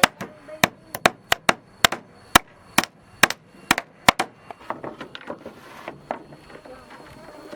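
Hammer blows on wood, a run of sharp strikes two to three a second for about four seconds, then lighter, quicker taps and knocks.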